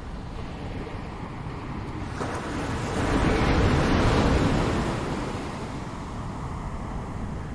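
Ocean waves breaking on a shore over a steady low rush of surf, one wave swelling about two seconds in, cresting a little later and washing away.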